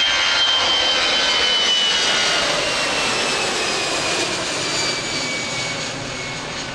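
Airbus A320-214 with CFM56 jet engines at takeoff power, passing and climbing away. The engine whine glides down in pitch and the roar slowly fades.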